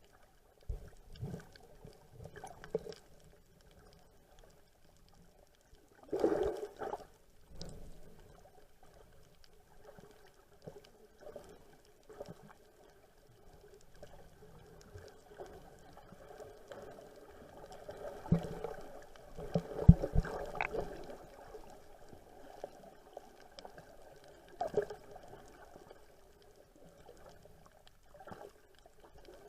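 Water sloshing and splashing around a boat, with irregular louder splashes about 6 seconds in, again around 18 to 21 seconds, and near 25 seconds.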